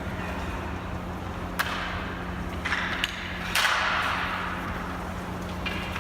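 Ball hockey play: sharp knocks of sticks and ball, the loudest a bang about three and a half seconds in that fades out with an echo. A steady low hum runs underneath.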